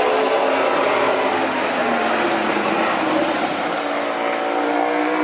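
Racing motorcycle engine running, its pitch falling over the first couple of seconds and then climbing again as it revs up near the end.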